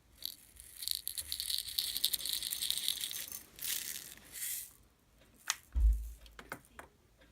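Slime being handled close to the microphone: a dense crackling, rattling stretch lasting a few seconds, two short squishy bursts, then a few sharp clicks and a low thump about six seconds in.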